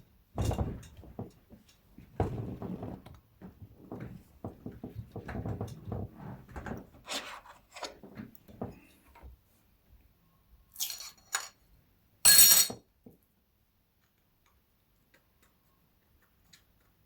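Hands and tools on a repair bench: a run of small knocks and clatter as a phone's top motherboard is set back onto the bottom board. After a lull come a few sharp, ringing metallic clinks.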